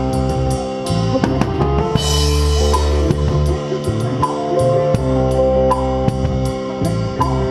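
Drum kit with Zildjian cymbals playing a steady groove with bass drum and snare, along with sustained bass and guitar. The cymbal strokes are evenly spaced, and a crash rings out about two seconds in.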